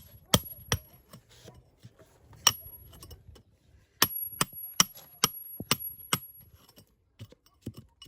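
Hand hammer striking a steel chisel into soft stone, each blow a sharp metallic strike with a high ring. Two blows come early and one near the middle, then a quick run of about six, two or three a second, with fainter taps near the end.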